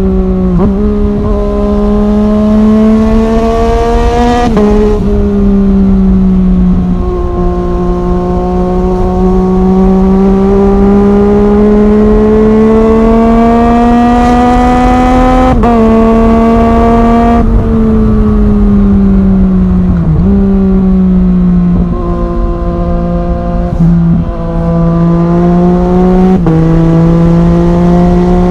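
Yamaha MT-09's three-cylinder engine through an Arrow Thunder full-system exhaust under way, pitch climbing steadily through the gears with sudden drops at the upshifts about five seconds in, about halfway, and near the end, and a longer fall as it slows in between.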